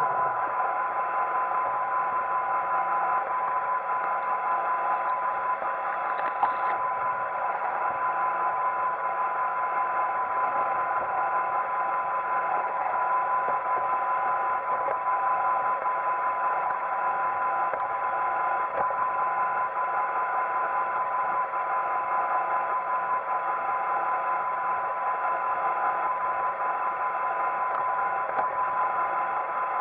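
Roomba 880 robot vacuum running: a steady mechanical whir with a constant high whine, unchanging throughout.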